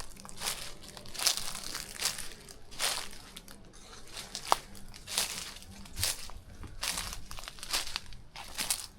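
Footsteps crunching over rough ground at an even walking pace, a bit more than one step a second, with a single sharp click about halfway through.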